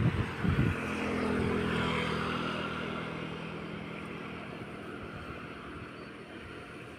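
A motor vehicle engine humming as it passes, loudest about a second and a half in and then slowly fading away.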